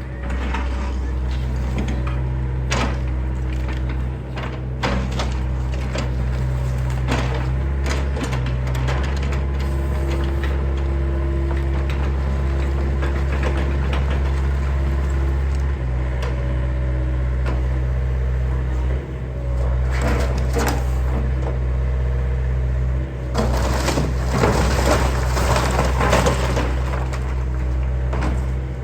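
John Deere excavator's diesel engine running steadily while wood cracks and snaps as a house is torn down. Scattered cracks come throughout, with a louder stretch of crunching and splintering near the end.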